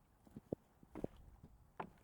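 Footsteps of a person walking, a few separate steps roughly half a second to a second apart.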